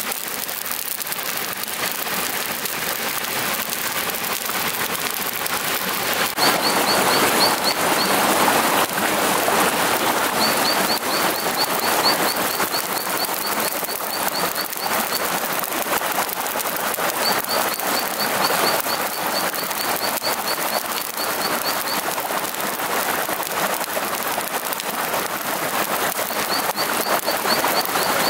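A steady crackling hiss, with a bird giving rapid, evenly repeated high chirps in several runs of a few seconds each.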